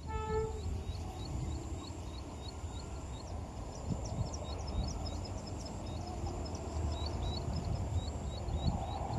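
Small birds chirping over and over in short high notes above a steady low rumble, with a steady thin high tone. A brief pitched toot sounds at the very start.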